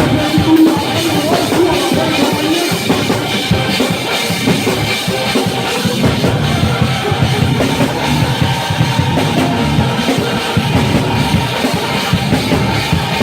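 Church band playing uptempo praise music, with the drum kit's bass drum and snare to the fore.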